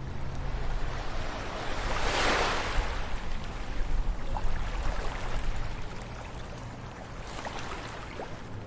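Ocean waves breaking on a beach: one wave crashes and washes in about two seconds in, and a weaker one follows near the end, over a steady low rumble of surf with fizzing crackles from the foam.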